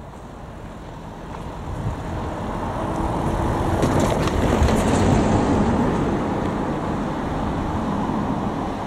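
A vehicle passing by: the noise swells to its loudest about halfway through, then slowly fades away.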